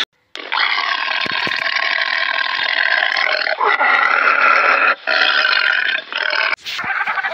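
Tiger vocalising: long, drawn-out growling calls broken by short pauses, ending in a sharp click near the end.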